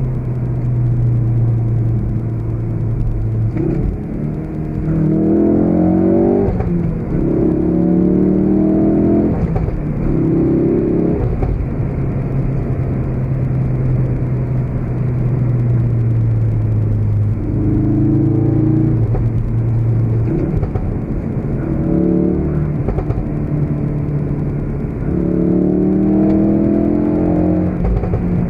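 2016 Ford Focus RS's turbocharged 2.3-litre four-cylinder engine, alternating between a steady cruising drone and hard accelerations. The engine note rises and falls back in steps at each gear change, in several separate bursts of acceleration.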